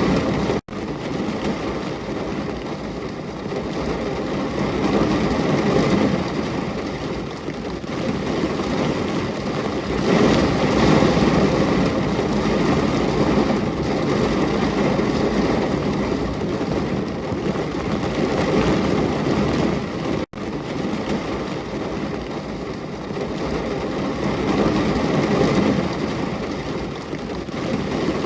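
Steady heavy rainfall, a dense rushing noise that swells and eases every few seconds. It cuts out for an instant twice, once about half a second in and again about twenty seconds in.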